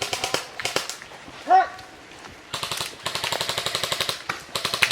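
Airsoft electric guns firing full-auto: a few short bursts of rapid clicking shots, then a long burst of about a second and a half and another starting near the end. A brief shout about a second and a half in is the loudest moment.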